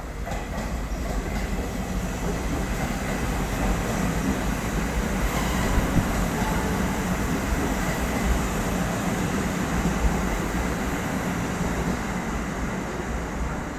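A train running through the station: a steady rumble of wheels on rails that swells toward the middle and eases off near the end.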